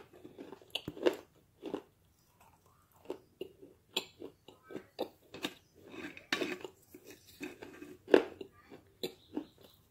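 Close-miked chewing and crunching of dry clay chunks and clay powder, in quick irregular crunches.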